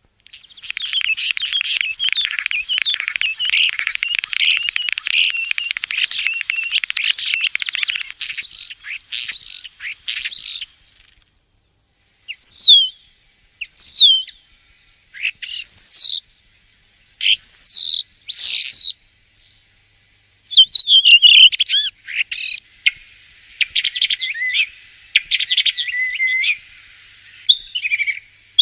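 Common starling singing: about ten seconds of fast chattering and rattling notes, then after a short pause a string of separate whistles that slide down and up, then more chatter mixed with whistles.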